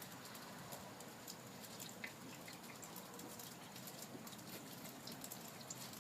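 Light rain pattering, with scattered drops ticking irregularly.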